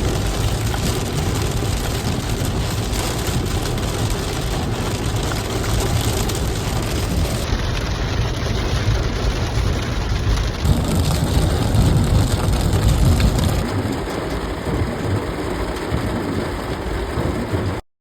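Heavy rain falling, a steady dense hiss, cutting off suddenly near the end.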